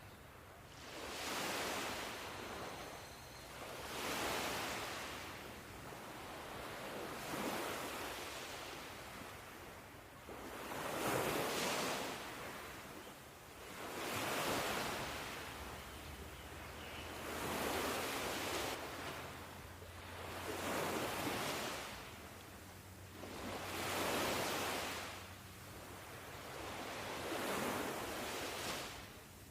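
Ocean surf: waves breaking and washing in, in slow surges about every three seconds, each swelling and fading away.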